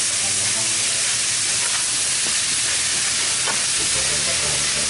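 Fried rice frying in a large wok: a steady sizzle, with a spatula scraping and stirring as cooked rice is tipped in and mixed through the diced vegetables and meat.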